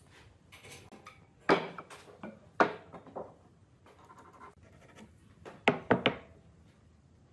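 Wood being handled by hand: several sharp knocks, one about a second and a half in, another a second later, and three in quick succession near the end, with light scraping and rubbing between them.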